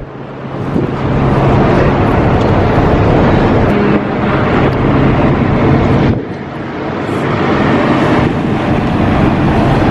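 Steady rumble of a car ferry's engines mixed with wind buffeting the microphone. The noise dips sharply twice, right at the start and about six seconds in, and swells back each time.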